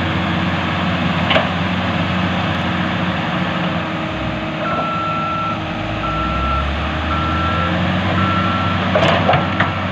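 Heavy diesel earthmoving machinery running steadily. About halfway through, a backup alarm starts beeping about once a second. There is a sharp metallic clank near the start and a few more near the end.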